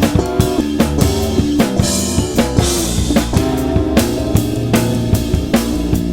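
Bass and drum kit playing together: a bass line of sustained notes over a steady groove of kick and snare hits, with a cymbal wash about two seconds in.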